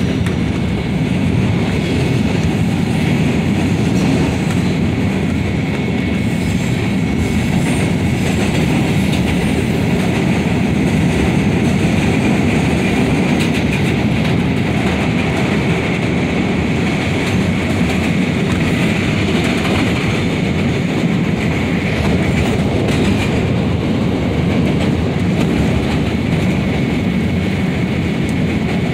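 A CTA 5000-series Bombardier rapid-transit car running on elevated track, heard from inside the car. Its wheels give a steady rumble, with a few clicks over rail joints and a faint, steady high-pitched tone.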